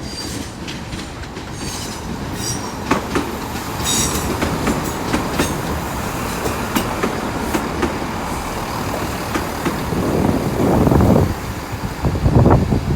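Class 166 'Turbo' diesel multiple unit moving through the platform. Its wheels squeal in short high tones in the first few seconds, with clicks over the rail joints and a steady rumble that grows louder near the end.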